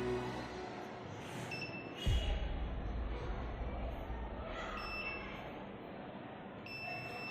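Electronic buzzer sounding short, high, steady beeps several times, with a knock about two seconds in followed by a low rumble for a couple of seconds.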